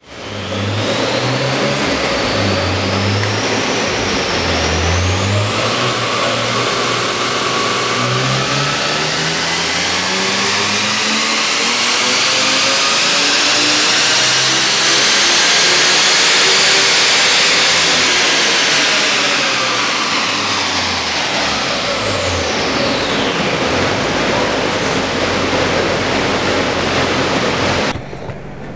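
A stock, unsupercharged BMW E46 M3's 3.2-litre straight-six doing a power run on a chassis dyno. There are a few short rises in revs in the first five seconds, then one long climb in engine pitch to the top of the rev range about 17 seconds in. The engine then falls back and settles to a steady idle.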